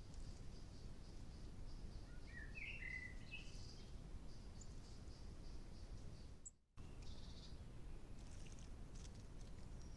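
Faint wild birdsong and chirps over a steady low background hiss, with a short, clearer phrase of notes a few seconds in. The sound drops out almost completely for a moment about two-thirds of the way through.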